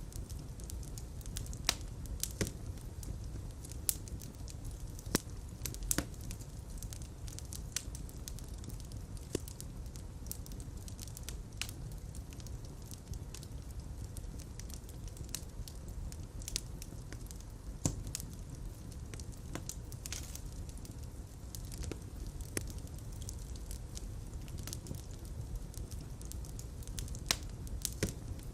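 Fireplace fire crackling over a low steady rumble of flames, with irregular snaps and a few louder pops.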